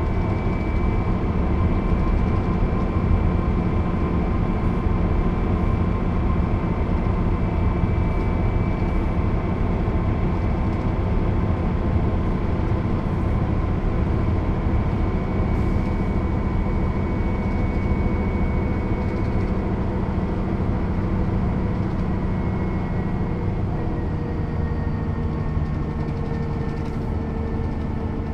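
1996 Mercedes-Benz O 407 bus with manual gearbox under way, its six-cylinder diesel running steadily over a continuous low rumble. The engine note falls slightly and quietens a little over the last several seconds.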